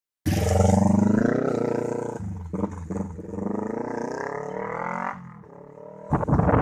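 Level-crossing loudspeaker siren (toa) sounding, a harsh pitched tone that wavers slowly up and down. It starts suddenly just after the start and weakens about five seconds in, giving way to wind-like rustle near the end.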